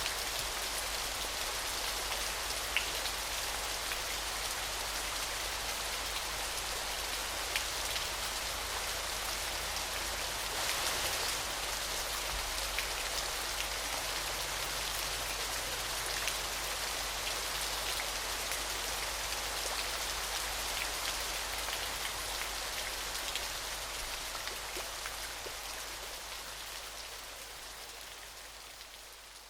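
Steady rush of falling and splashing water with scattered droplet ticks, fading out over the last several seconds.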